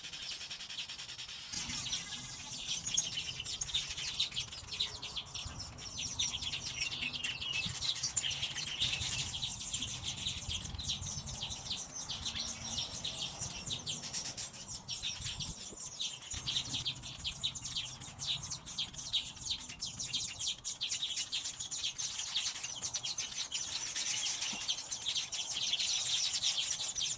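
Yellow weavers chattering in a colony: a dense, continuous mass of quick overlapping chirps, with a faint low rumble underneath.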